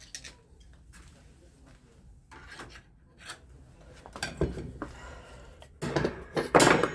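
Clatter of metal hand tools being handled and set down on a workbench: a few light knocks and rubbing sounds, then a louder burst of clattering near the end.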